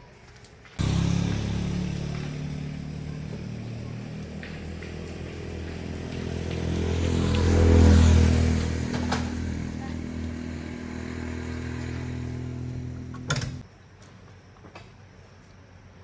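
A Daewoo car's engine running for about thirteen seconds. It comes in suddenly, rises in speed to a peak about halfway through, settles back, and then cuts off abruptly.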